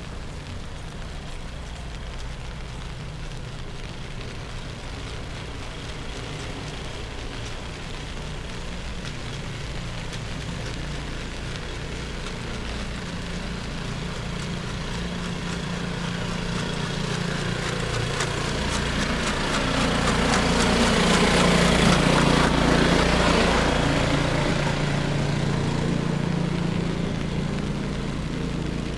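A vehicle driving past on a wet, snowy city street: its engine and tyre hiss grow louder, pass closest a little over three-quarters of the way through, then fade away.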